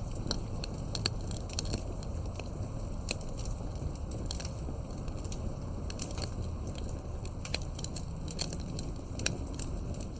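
Wood campfire burning, crackling with many irregular sharp pops and snaps over a steady low rumble of the flames.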